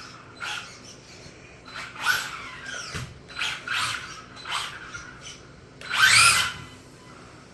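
Brushless electric motor of an RC drag car revved in a series of short throttle blips, each a whine that rises and falls in pitch, the longest and loudest about six seconds in.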